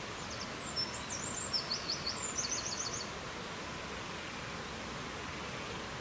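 A small songbird sings one phrase of short, high notes that ends in a quick trill, over a steady rushing noise that runs on after it.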